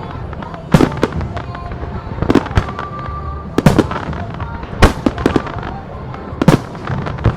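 Aerial fireworks shells bursting: five loud bangs roughly a second or so apart, with smaller pops and crackle between them, over music playing throughout.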